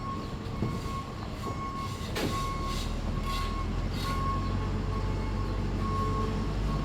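A heavy machine's engine running, growing louder about two seconds in, with a reversing alarm beeping over and over and a few sharp knocks.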